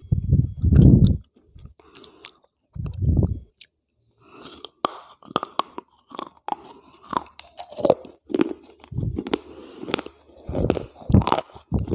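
Close-miked biting and chewing of hard, brittle grey and white pieces, a microphone held right at the mouth. It starts as dull, deep chewing, then from about four seconds in turns into a run of sharp, crisp crunches, loudest near the end.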